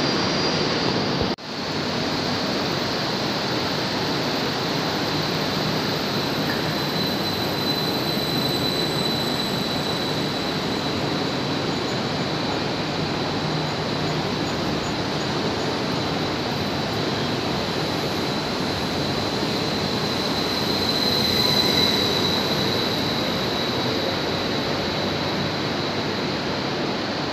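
Stadler FLIRT electric multiple unit pulling out of the platform and running past, a steady rolling rumble with a thin high squeal or whine held through it that swells briefly past twenty seconds in. The sound drops out sharply for a moment about a second in.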